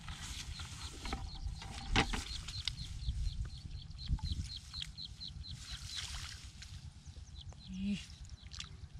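A bird calling a fast series of short, high chirps, about three a second, that stop about six seconds in, over a steady low rumble, with one sharp click about two seconds in.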